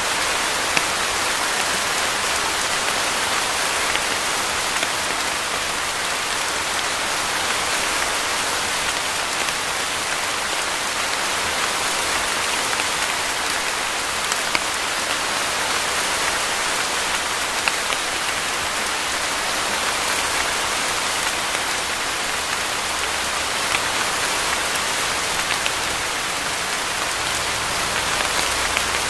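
Steady heavy rain falling on a surface: a dense, even hiss with scattered sharper drop ticks.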